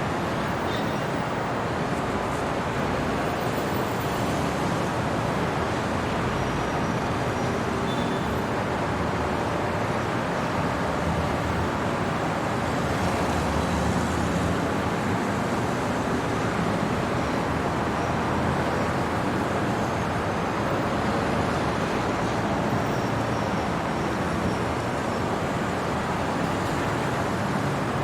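Steady city traffic noise: an even wash of road sound with no single vehicle passing out of it.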